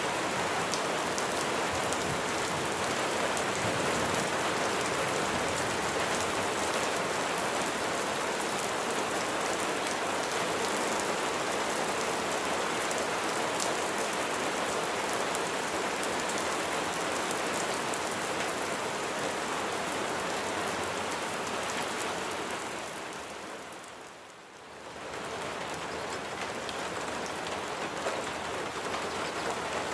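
Steady rain falling, an even hiss of many drops. About three quarters of the way through it fades down for a moment and swells back.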